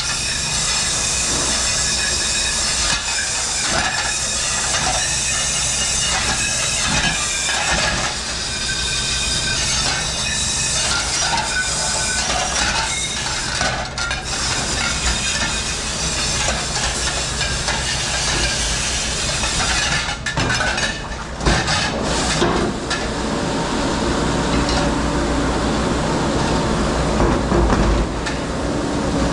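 Commercial dish room: an industrial dishwashing machine running with a steady hiss and rumble, with dishes and racks clattering on and off throughout.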